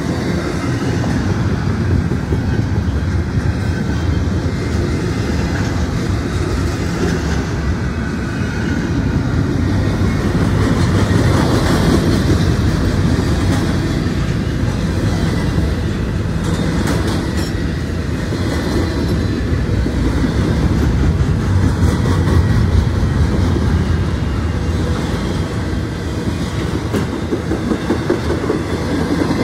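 Double-stack intermodal freight train's container well cars rolling past close by: a loud, steady rumble of steel wheels on the rails, with scattered clicks as the wheels cross rail joints.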